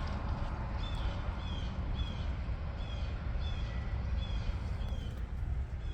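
A bird chirping over and over, short slightly falling chirps about two a second, over a steady low outdoor rumble.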